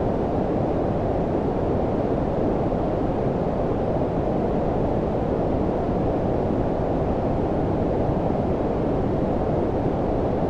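Steady low-frequency noise, a deep, even hiss with most of its weight below about 1 kHz and little treble, unchanging throughout: generated brown-style noise for sleep.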